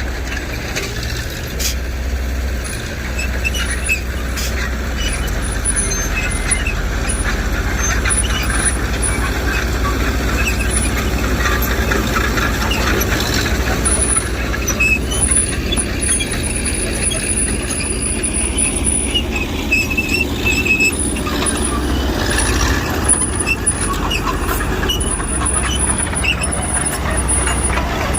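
Diesel engine of heavy earthmoving machinery running steadily under load, with short high squeals scattered through it.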